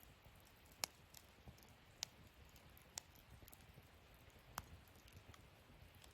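Wood fire burning in a fire stand, crackling softly with four sharp pops a second or so apart, the loudest just under a second in, over a faint low rumble.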